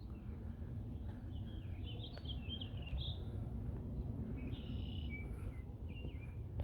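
Small birds chirping in short, broken calls, a cluster about a second and a half in and another near the end, over a steady low rumble.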